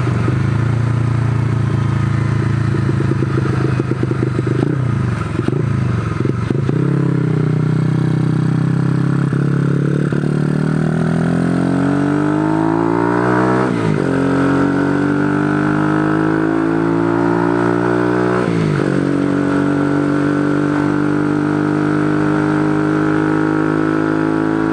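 A Benzer 125cc-class motorcycle's single-cylinder engine heard from the rider's seat. It cruises steadily at first; in the second half the revs climb and fall back sharply twice as he shifts up, then hold steady at a higher pitch. Wind rush runs underneath.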